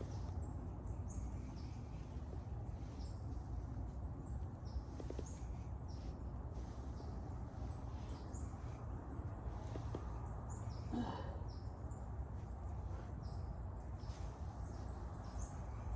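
Small birds chirping, short high calls repeating every second or so, over a steady low outdoor rumble.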